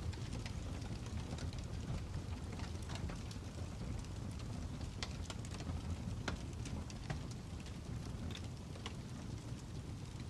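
Fire crackling: a steady low rumble of flames with scattered sharp pops and crackles at irregular intervals.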